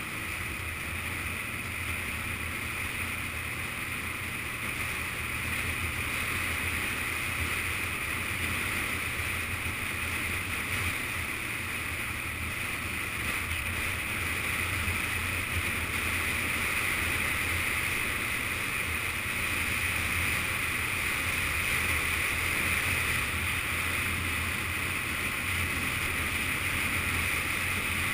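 Yamaha FZS600 Fazer inline-four motorcycle running steadily on the road, mixed with wind rush on a GoPro action camera's housing. The steady hiss and low engine note carry on without a break, getting slightly louder partway through.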